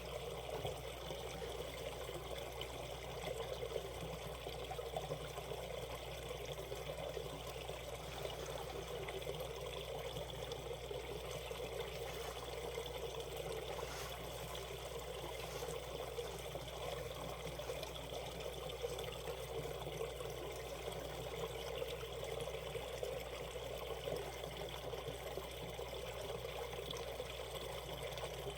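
Shallow valley stream running over rocks, a steady trickling and pouring of water.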